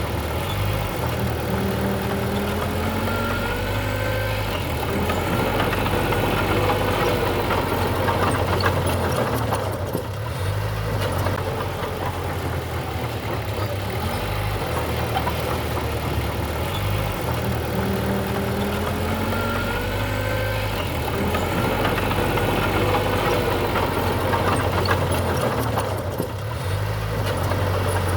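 Diesel engine of heavy earthmoving machinery running continuously, its pitch rising and falling in places, with two brief dips in loudness.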